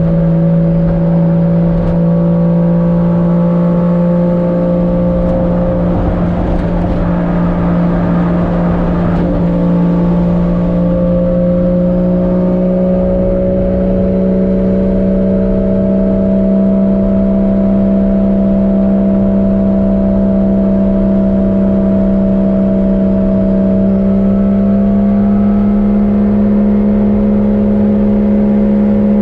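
Swapped 1JZ-GTE VVTi turbocharged inline-six in a Nissan 240SX running under way at a steady engine speed: a constant drone that slowly climbs in pitch, with a brief rush of noise about six seconds in.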